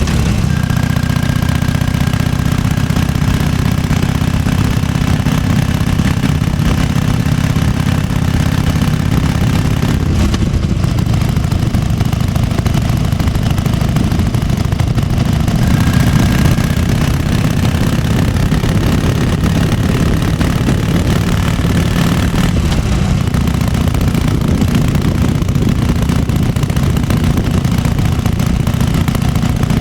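1998 Harley-Davidson FatBoy's Evolution V-twin engine idling steadily with its uneven potato-potato beat.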